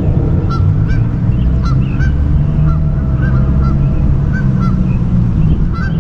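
Geese honking over and over, short calls coming every half second or so, over a loud steady low rumble.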